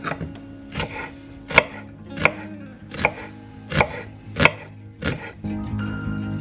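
Kitchen knife chopping salad vegetables on a chopping board: about seven separate cuts, a little under a second apart. Guitar music comes up near the end.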